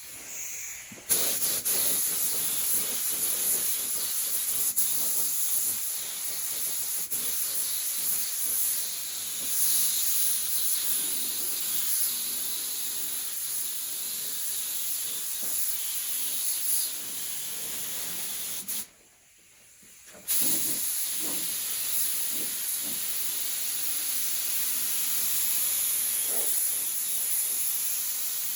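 Paint spray gun hissing steadily as primer is sprayed. The spraying stops for about a second and a half past the middle, then starts again.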